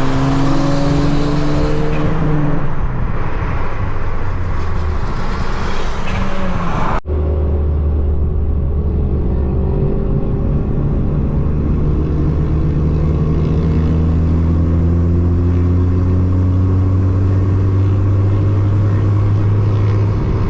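Car engine accelerating under load in two stretches, split by an abrupt cut about seven seconds in. In the longer second stretch the engine note climbs slowly and steadily.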